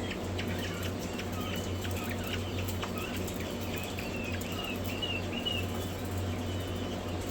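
Many hatchling quail chicks peeping in quick, overlapping high chirps, over a steady low hum.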